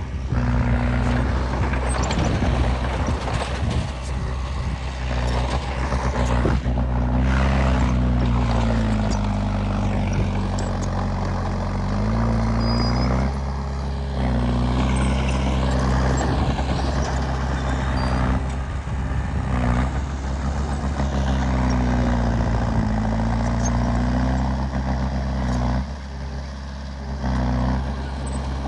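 Heavy diesel engine of earthmoving machinery working under load, its pitch rising and falling as it revs and eases off, with scattered metallic clanks.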